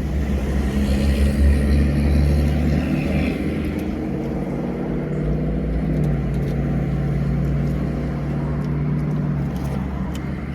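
Steady low rumble of a vehicle engine idling, its hum shifting slightly in pitch about halfway through.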